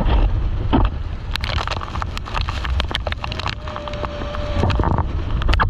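Wind rumbling on the microphone on a moving boat, with water splashing and crackling.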